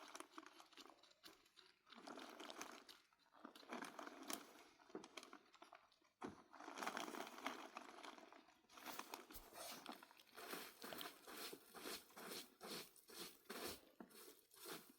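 Faint irregular crunching and rustling, settling about nine seconds in into a steady beat of about two crunches a second.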